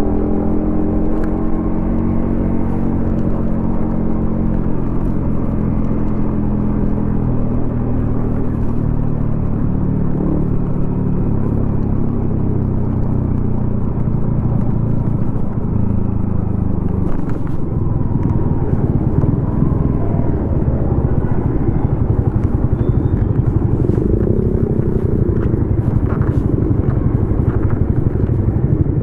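Yamaha XSR155's single-cylinder engine running through a DIY exhaust while riding. The engine note falls in pitch over the first few seconds, then holds steady. About two-thirds of the way through it turns rougher and less even.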